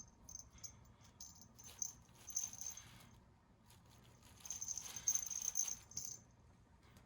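A small cat toy rattling as it is shaken in bursts: short shakes at first, then a longer run of rattling for over a second near the middle.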